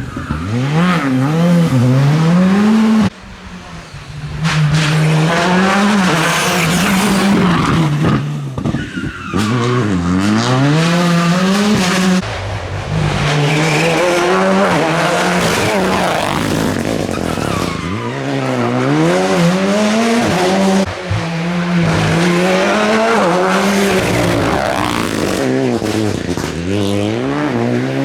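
Rally car engine revving hard and dropping back over and over through gear changes and corners, with tyres squealing. The engine briefly cuts off about three seconds in before picking up again.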